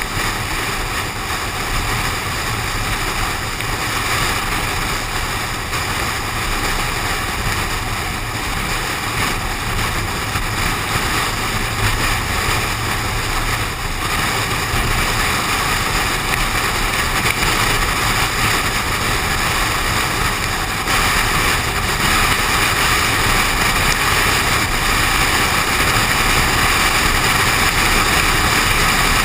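Steady rushing noise of a car moving in the rain: wind and wet road noise buffeting a GoPro suction-cupped to the car's window. It slowly grows a little louder.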